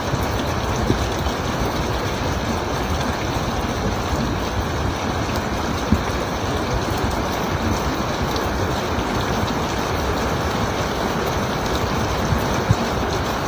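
Heavy rain pouring steadily, with a few brief knocks.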